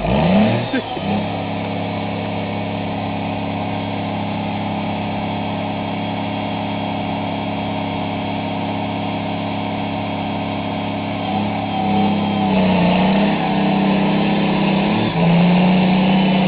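Tractor engine under load while working to get free, pitch shifting up and down in the first second, then running steadily. About 11 seconds in it revs up and wavers, dips sharply once near 15 seconds, then holds at a higher, louder speed.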